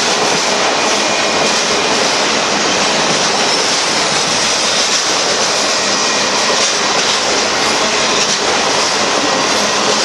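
Freight train's autorack cars rolling past close by: a steady, loud noise of steel wheels running on the rails.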